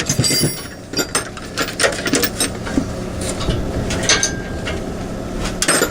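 Irregular metallic clicks and clinks of pliers working a cotter pin out of a mini bike's kickstand mount, over a low steady hum.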